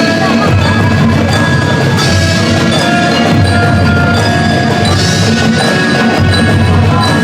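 Marching band playing: drums beat under a melody carried by bell-like mallet percussion.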